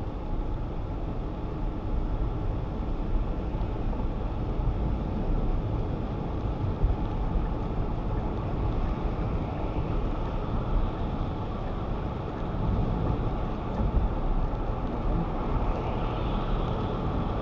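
Steady car cabin noise while driving on a wet road in rain: the engine running and tyres hissing on the wet surface, with no sudden events.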